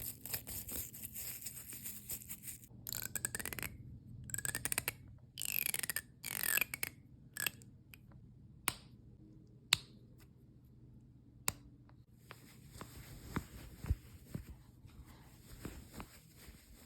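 Close-up handling sounds on small objects: scratchy rubbing, then several short sweeping strokes with a gliding pitch, three single sharp clicks a second or two apart, and softer scratching with light taps near the end.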